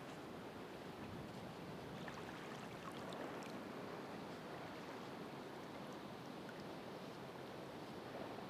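Ocean waves washing on the shore: a steady rushing wash that swells slightly about three seconds in, with faint scattered crackles.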